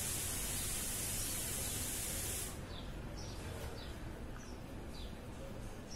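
A steady high hiss that cuts off suddenly about two and a half seconds in, followed by a small bird's short falling chirps repeated several times.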